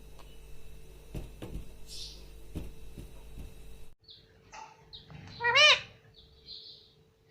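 A pet parrot gives a few short chirps, then one loud arching call about two-thirds of the way in. Before that, a few soft knocks.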